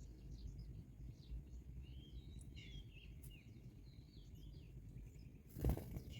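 Small birds chirping in quick, scattered high notes over a low steady rumble, with one loud sudden bump about five and a half seconds in.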